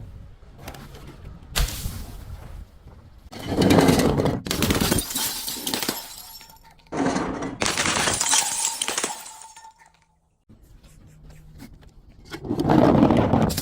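Glass bottles smashing: a sharp crack, then three long shattering crashes of breaking glass, each trailing off.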